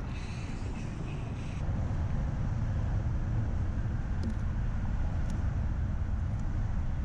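Steady low rumble of highway traffic crossing the Interstate 85 bridge overhead, heard from beneath it; it grows louder about two seconds in.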